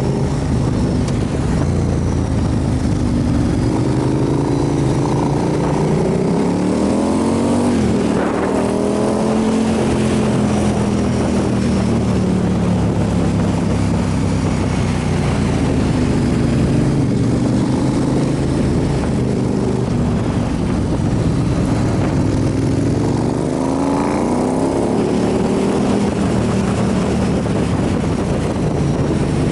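Motorcycle engine running on the open road, its pitch rising about a quarter of the way in, easing down gradually, then rising again near the end as the throttle is opened.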